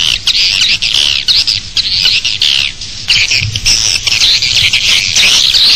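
Swiftlets twittering in a dense, continuous chorus of overlapping high chirps that thins briefly about halfway through. It is the external lure call that swiftlet nest farmers play outside a bird-nest house to draw the birds in.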